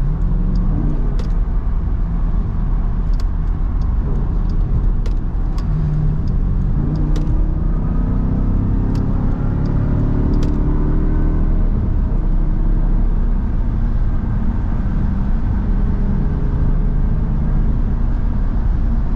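Car engine and tyre noise heard from inside the cabin of an SRT Jeep, a steady low rumble. About seven seconds in, the engine rises in pitch as the car accelerates, then eases back. A few sharp ticks are scattered through it.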